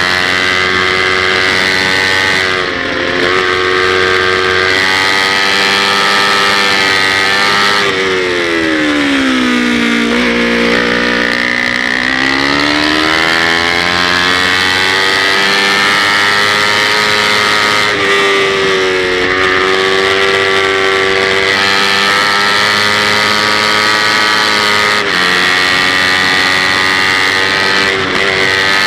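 Kawasaki Ninja 250's parallel-twin engine running at high revs under racing load, heard from an on-board camera. About 8 s in the revs fall steeply and climb back over the next few seconds; there is a smaller dip a little later and short breaks in the note at several points.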